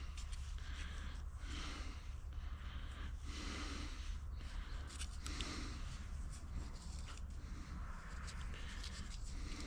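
Slow, heavy breathing close to the microphone, about one breath every two seconds, over a steady low hum.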